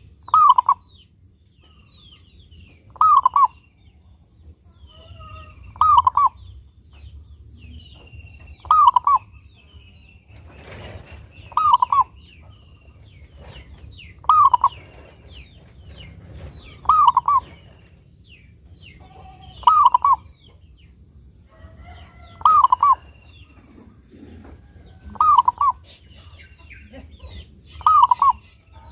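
Zebra dove (perkutut) singing its short cooing phrase over and over, about once every three seconds. Fainter, higher chirping sounds between the phrases.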